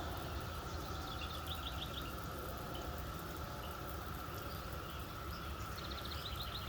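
Cicada chorus making a steady, even background hum. A songbird sings two short phrases of quick repeated notes over it, about a second in and again near the end.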